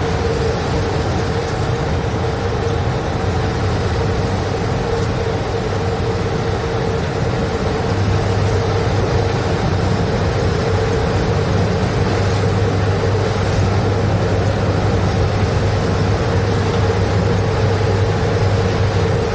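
Train running steadily along the track: a constant noise with a steady tone over a low hum, the hum growing stronger about eight seconds in.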